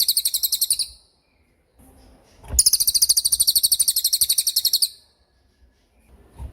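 Cililin songbird giving its rapid 'tembakan' trill: very high, fast repeated notes, about fifteen a second. A short burst ends about a second in, and a longer one runs from about two and a half to nearly five seconds in.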